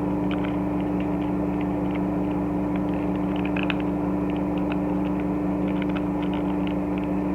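Steady machine hum with a strong low droning tone, like a fan or appliance, with faint scattered clicks of a plastic action figure being handled.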